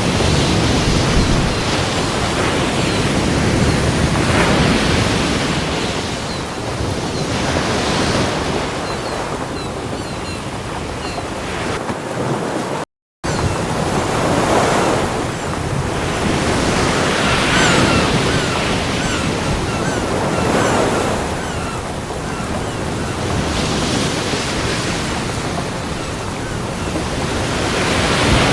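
Ocean surf breaking on a beach: a continuous rush of waves that swells and eases every few seconds. It cuts out completely for a split second a little before halfway through.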